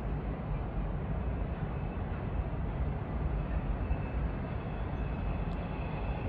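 Steady low rumble of a long freight train running around the Tehachapi Loop at a distance.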